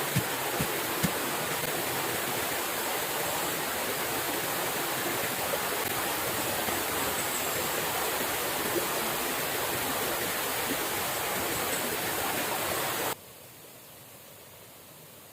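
Steady rushing of a river's flowing water, with a few sharp knocks in the first second. About 13 seconds in it cuts to a much fainter hiss.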